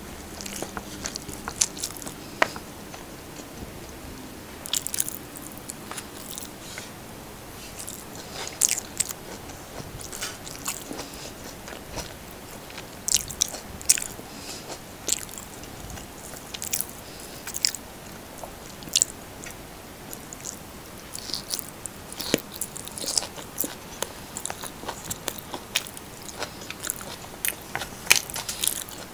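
Close-miked mukbang chewing of a mouthful of fried rice and corned beef eaten by hand, with irregular sharp mouth clicks and smacks.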